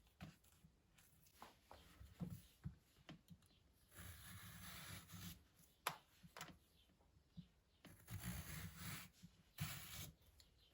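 Quiet handling sounds: scattered light clicks and knocks, with two longer stretches of rustling or scraping, one around the middle and one near the end.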